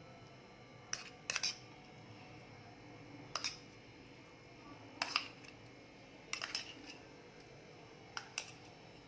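A spoon tapping and clinking against a bowl as a spice paste is added for a masala mix: a handful of short, sharp clinks spaced a second or two apart.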